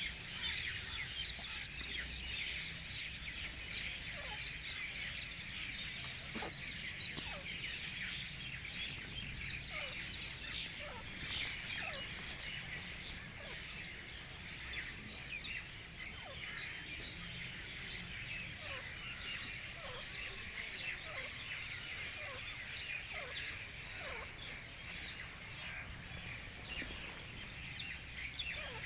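Many small birds chirping and twittering together in a continuous dense chorus, with repeated short falling calls among them. A single sharp click stands out about six seconds in.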